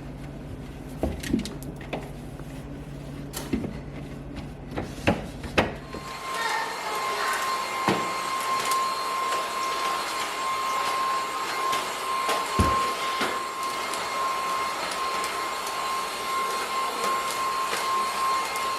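Light clicks and knocks of things being handled, then about six seconds in a vacuum cleaner switches on and runs steadily with a constant whine.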